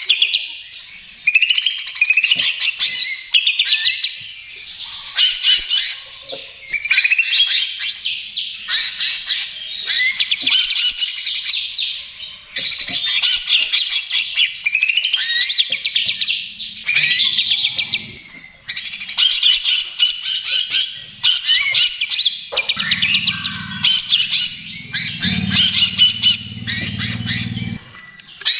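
Green leafbird (cucak ijo) singing a loud, fast trotol song: dense runs of rapid chirping notes in phrases broken by brief pauses. A low hum sits under the song in the second half.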